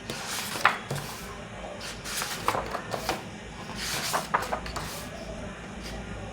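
Pages of a picture book being turned and handled by hand, several short papery rustles and flaps.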